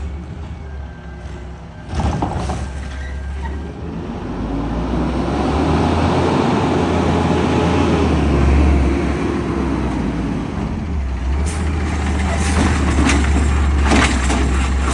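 Peterbilt 520 garbage truck's engine running loud and steady. A sudden burst of noise comes about two seconds in, and the engine grows louder from about four seconds in as it works harder.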